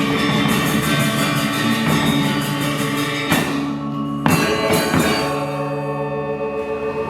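Balinese gamelan ensemble playing: bronze metallophones and gongs ring in held, layered tones, with two sharp struck accents about three and four seconds in, after which the ringing thins out.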